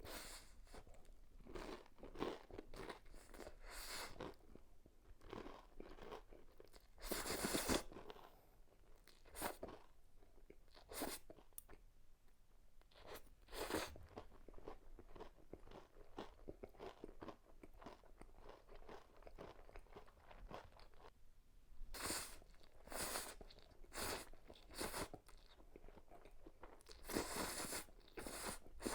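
Close-miked eating of crispy breaded pork cutlet: a steady run of crunchy bites and chewing, with several louder crunches.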